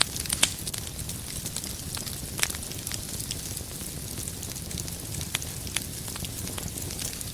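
Wood fire in a fireplace crackling: a steady low hiss with scattered sharp pops, the loudest just under half a second in and a few more spread through.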